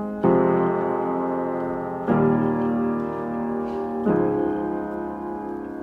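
Background music: a piano playing slow sustained chords, a new chord struck about every two seconds, with no singing.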